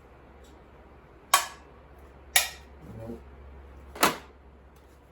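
Three sharp clacks of small hard objects being put down, about a second and a half apart.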